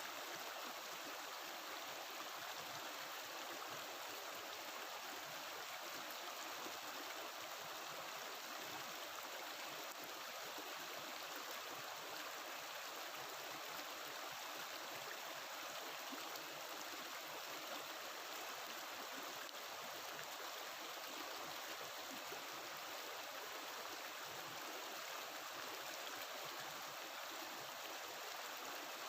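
A mountain stream flowing and burbling over rocks, a steady rushing.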